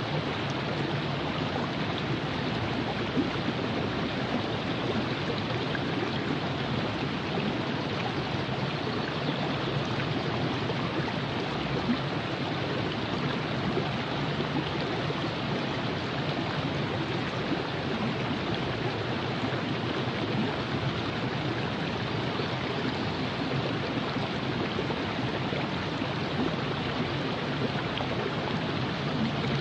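River water flowing and rushing over rocks in a steady, unbroken babble.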